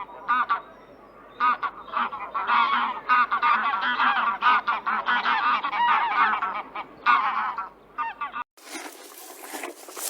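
A flock of domestic geese honking, many short calls overlapping, busiest in the middle. It cuts off abruptly near the end, giving way to a different, quieter animal sound.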